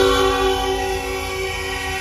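Locomotive air horn held in one long, steady blast of several notes at once, easing a little in loudness partway through.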